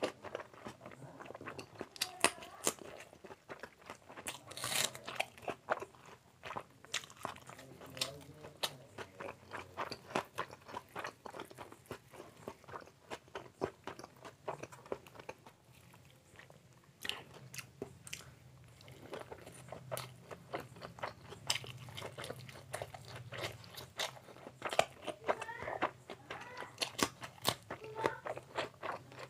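Close-up chewing and biting as a man eats egg omelette by hand, with many small irregular mouth clicks and the soft handling of the omelette as his fingers tear pieces off.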